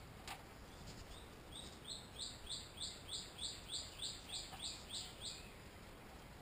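A songbird singing a rapid series of about a dozen repeated falling whistled notes, about three a second, which then stops. A faint click comes just before it.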